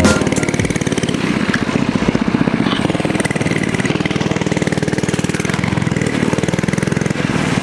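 Mini motorcycle's small single-cylinder engine running at a steady speed, a fast even chatter of firing pulses.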